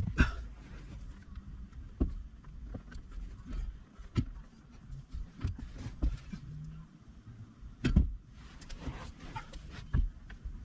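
Scattered knocks and clicks from hand tools and parts being handled while the steering column is bolted back together, over a low background rumble.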